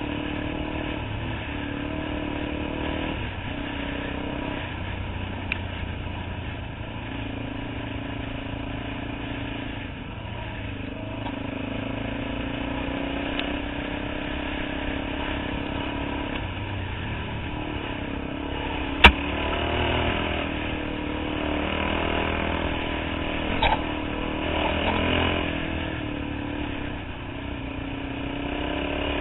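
Dirt bike engine running under way on a dirt trail, its revs rising and falling with the throttle. A single sharp knock comes about two-thirds of the way through.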